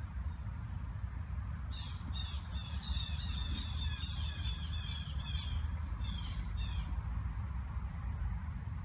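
A bird calling in a rapid series of short, high, falling notes, about five or six a second, for about five seconds, over a steady low rumble.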